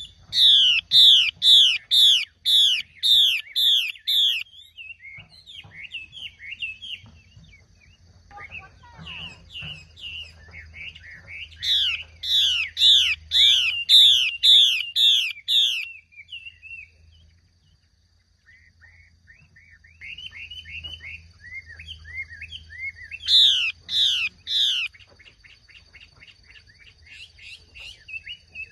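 Chinese hwamei (画眉) song, given as a female's call used to draw males into singing. It comes in three loud runs of repeated down-slurred whistled notes, about two a second, with softer twittering between the runs.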